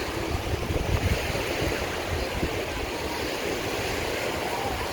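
Wind buffeting the microphone in gusts, over a steady rushing background noise; the gusts are strongest in the first second or so.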